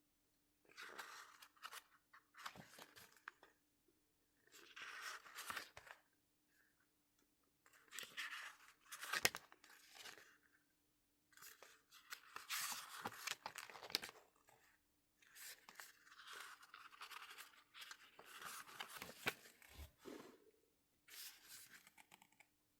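Paper and plastic album packaging being handled, with bursts of rustling and tearing separated by short pauses. A faint steady hum lies underneath.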